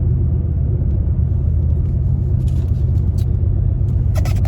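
Steady low rumble of a car heard from inside the cabin, with a few short clicks and a quick cluster of sharper clicks near the end.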